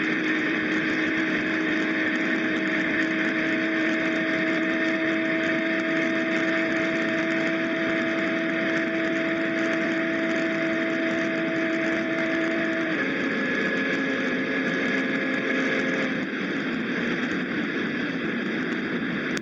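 BMW M340i's turbocharged 3.0-litre straight-six and tuned exhaust droning at steady revs. The pitch steps down about thirteen seconds in.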